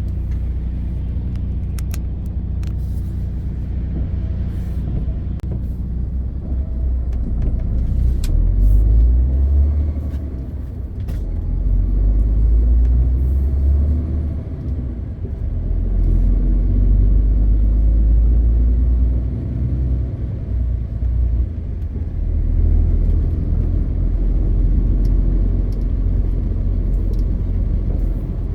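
MAN TGX 520 truck's diesel engine and drivetrain running on the road: a deep, steady rumble that swells and eases several times as the truck pulls and backs off. A few faint ticks sound now and then.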